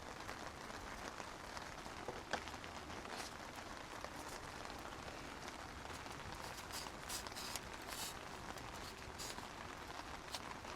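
Steady rain falling, an even hiss with scattered single drops ticking, one sharper drop about two seconds in.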